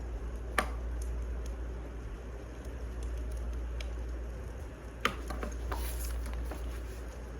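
Wood fire crackling: a steady low rumble and hiss with scattered sharp pops, two louder ones about half a second in and about five seconds in.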